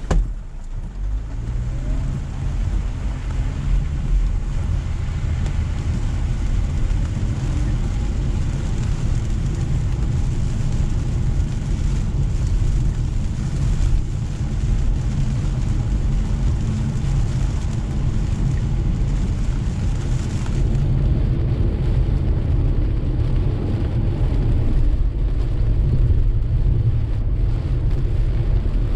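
Car driving on a wet road in steady rain, a continuous low road rumble with a hiss of rain and tyre spray over it. There is a brief thump at the very start. The hiss drops away sharply about two-thirds of the way through while the rumble carries on.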